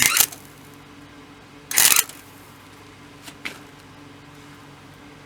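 Short bursts of welding crackle as tack welds go onto thin sheet-metal body panel: one at the start, another about two seconds in, and a brief faint one near three and a half seconds, over a steady low hum.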